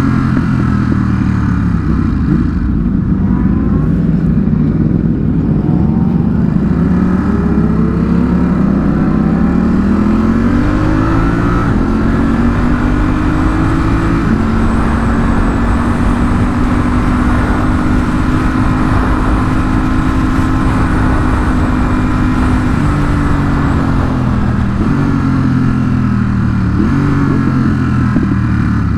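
Sport-bike engine under way, climbing in pitch and dropping back at each upshift over the first half, then holding a steady note for several seconds before stepping down through several downshifts near the end.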